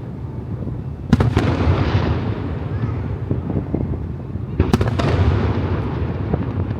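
Aerial fireworks shells bursting: a pair of sharp bangs about a second in and another pair near five seconds, each trailing off in a long rolling echo over a steady low rumble of further bursts.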